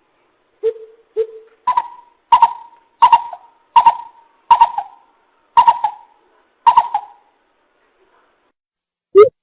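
Coucal (bìm bịp) lure call: a series of hollow hoots. Two low notes come first, then a run of about eight higher hoots at an even pace. The calling stops for a couple of seconds, and a faster, louder run starts right at the end.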